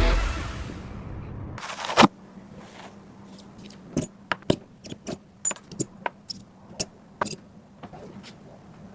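Background music fading out, then one loud click and a string of irregular sharp clicks and taps over a faint steady hum.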